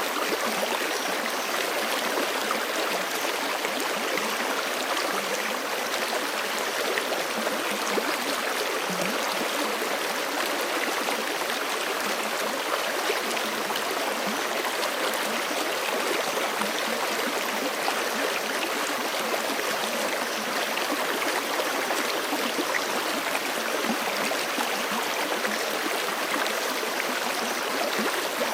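Forest stream flowing steadily, water rushing and splashing over rocks in an even, unbroken hiss.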